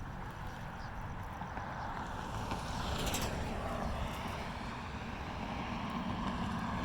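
Steady low rumble of distant vehicles with wind and outdoor hiss, slowly growing a little louder, with a brief hiss about three seconds in.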